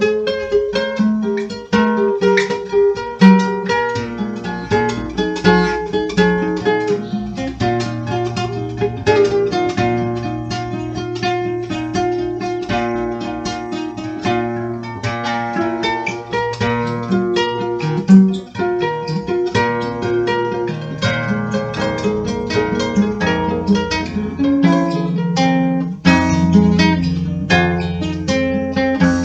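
Dark folk music: acoustic guitar plucked and strummed over a sustained low bass.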